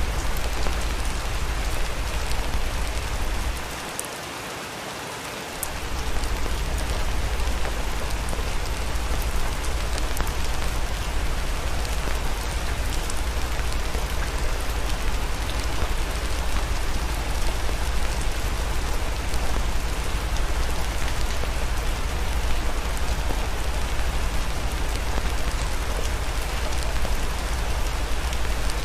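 Steady rain hiss over a deep low rumble, with a few faint sharp ticks. The rumble drops out for about two seconds around four seconds in.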